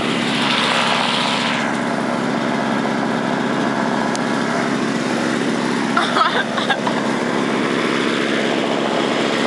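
Small engine of a snowblower running steadily.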